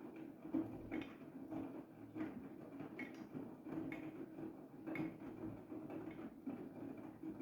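Siemens iQ700 front-loading washing machine in the main wash of its 60 °C cotton programme: the drum motor hums steadily while wet laundry tumbles in the turning drum, with soft knocks and swishes about once a second.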